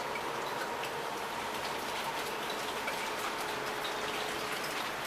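Heavy rain pouring steadily, with many individual drops pattering and ticking on hard surfaces.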